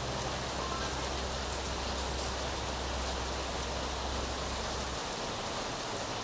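Steady rain hiss. A low hum underneath cuts off about five seconds in.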